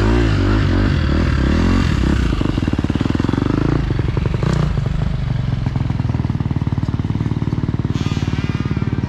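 Motocross bike engine revving up and down in the first couple of seconds, then running steadily at a lower, even pitch.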